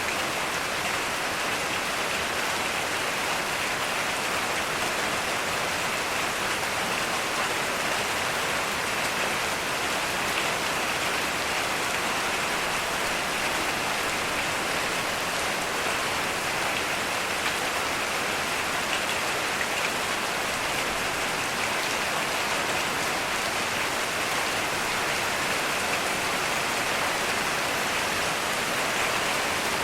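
Heavy rain falling steadily, an even, unbroken hiss of drops with no thunder.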